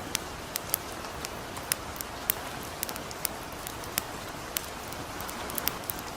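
Steady hiss of light rain mixed with the irregular sharp crackles and pops of a campfire, two or three a second.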